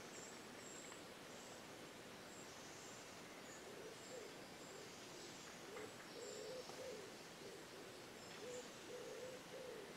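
Faint woodland birdsong: a bird's low, repeated calls from about four seconds in, with thin high chirps, over a quiet hiss.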